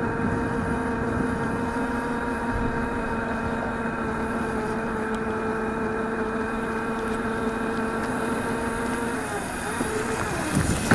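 Razor MX400 electric dirt bike's motor and chain whining at a steady pitch as it rides, over a rough rumble of tyres and wind. About nine seconds in, the whine drops in pitch and dies away as the bike slows.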